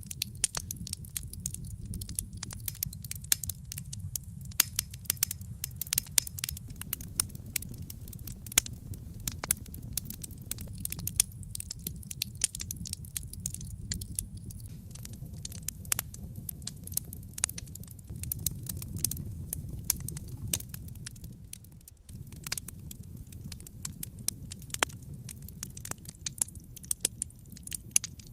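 Wood fire burning in a fireplace, crackling with dense, irregular pops and snaps over a low, steady rumble of the flames.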